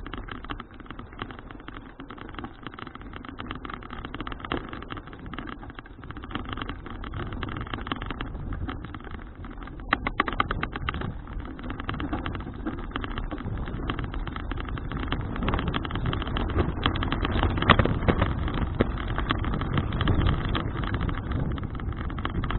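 Wind rushing over an action camera's microphone with road noise from a bicycle in motion, getting louder through the second half.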